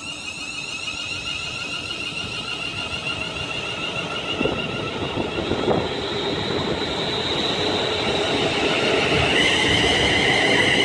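London Midland Class 350 Desiro electric multiple unit pulling away and accelerating. Its traction equipment gives a whine of several high tones that grows steadily louder, with a further tone joining near the end.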